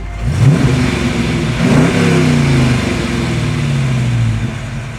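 Dodge 5.7 Hemi V8 revved twice from idle: a quick blip about a third of a second in, then a second rev about a second and a half in that falls back slowly to idle near the end.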